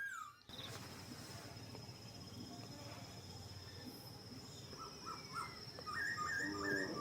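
Rural outdoor ambience: a steady high insect drone, with short bird chirps repeating from about five seconds in. At the very start a bird's repeated call ends abruptly.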